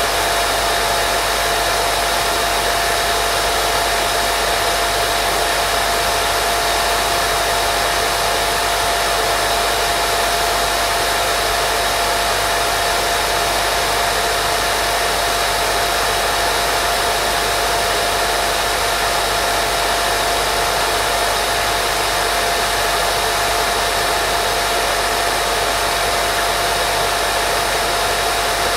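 Steady white noise made as a baby-sleep sound: an even hiss with a faint steady hum tone in it, never changing.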